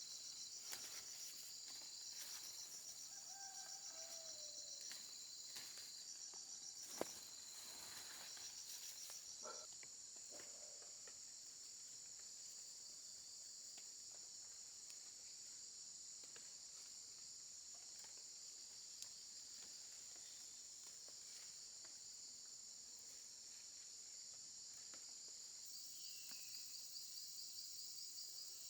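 Insects chirping steadily in a high, fast-pulsing trill. There are scattered faint clicks in the first ten seconds and one sharp tick about seven seconds in.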